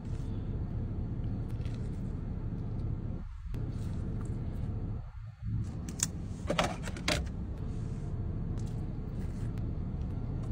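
Steady low rumble of a car idling, heard from inside the cabin. A short cluster of sharp clicks comes about six to seven seconds in.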